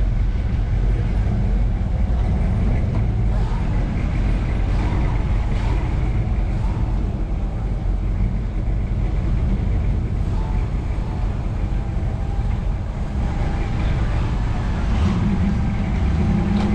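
Steady low rumble of a car engine running, with faint voices in the background.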